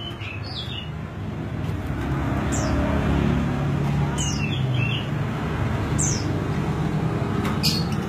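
Bird calls: short, high notes that slide downward, repeated every second or two, with a few lower notes in between, over a steady low background noise that grows louder about two seconds in.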